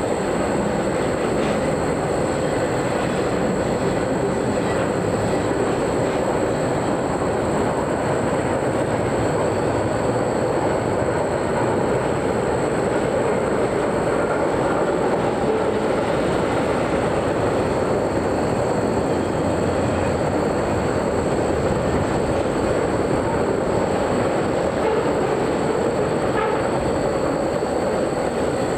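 Train cars rolling past on the rails: a steady, unbroken noise of wheels and cars that neither swells nor fades.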